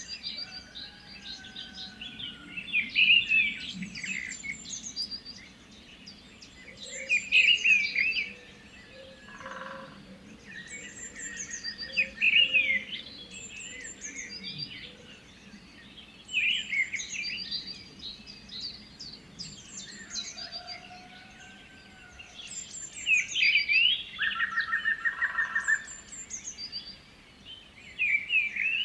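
Birds chirping and singing in repeated bursts every few seconds, with a few longer whistled notes between them.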